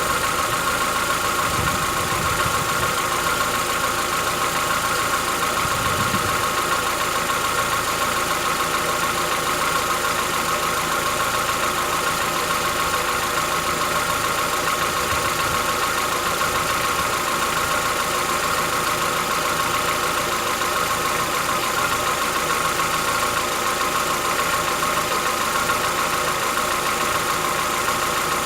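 Chevrolet Onix 1.4 four-cylinder engine idling steadily with a diesel-like knocking that the owner takes for tappet knock after a cold start, a noise the dealers call characteristic of the car.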